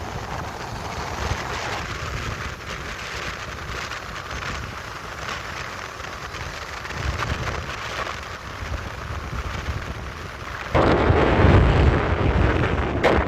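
Wind buffeting the microphone over the low rumble of a moving vehicle, a steady roar that jumps louder about eleven seconds in.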